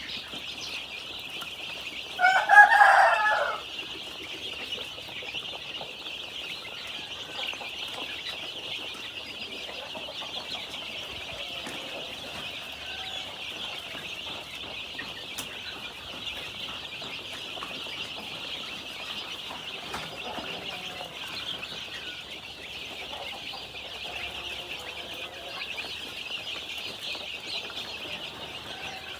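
A brood of 10-day-old KKU1 chicks peeping continuously in a dense, high chorus, with one louder, lower call about two seconds in that lasts over a second.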